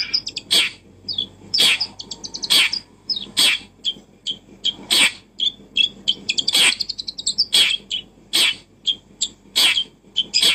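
A bird chirping: short, sharp calls about once a second, with quick runs of high twittering between them.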